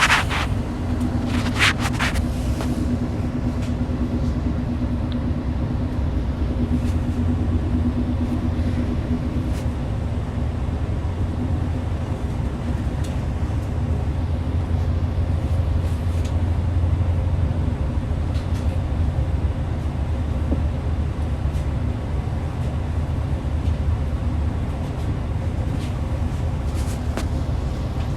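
Hyundai New Super Aero City city bus (2013) engine running under way, heard inside the passenger cabin: a steady low drone with road rumble. Two short hiss-like noises come near the start.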